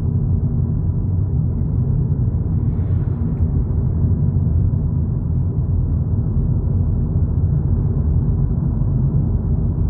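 Volkswagen Polo GTI on the move, heard from inside the cabin: a steady low road and engine rumble.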